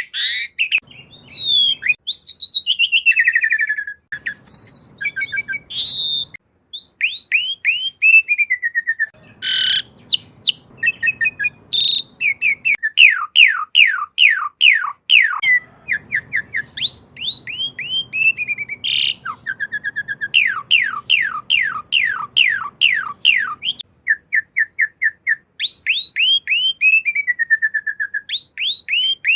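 Asian pied starling (jalak suren) singing a fast, varied song of whistles and chatter, with runs of quick, repeated down-slurred notes and short trills and brief pauses between phrases.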